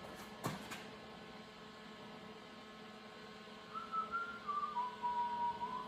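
A person whistling a short phrase of a few notes that steps downward in pitch, starting a little past halfway, over a steady faint hum; a light knock about half a second in.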